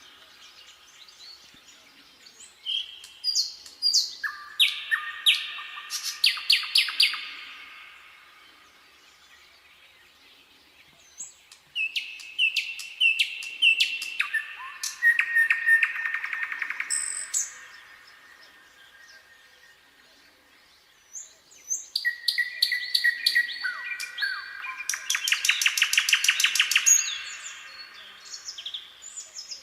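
Nightingale singing in three separate phrases with short pauses between them, each phrase a run of repeated whistled notes that ends in fast rattling trills.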